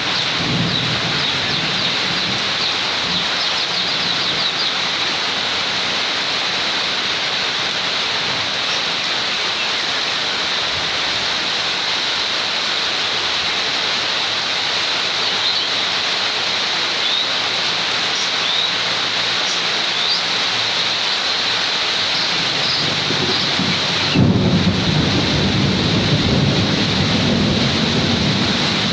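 Steady rain falling in a thunderstorm. About 24 seconds in, a loud thunderclap breaks in suddenly and rumbles on for several seconds.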